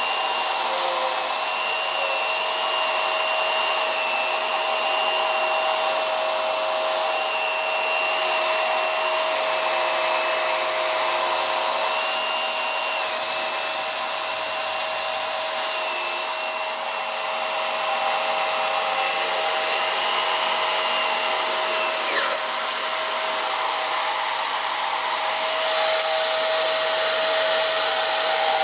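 Hoover PowerDrive Pet bagless vacuum cleaner running steadily, its motor giving a high, steady whine over a rushing airflow.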